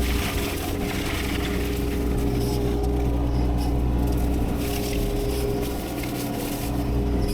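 A heavy machine's engine runs steadily with a constant hum, over a rough crackling noise. The low rumble eases briefly about six seconds in.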